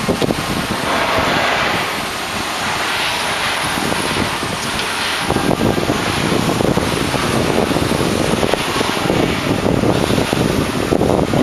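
Wind buffeting the microphone over a steady rushing noise of a ship under way; the low buffeting grows heavier about five seconds in.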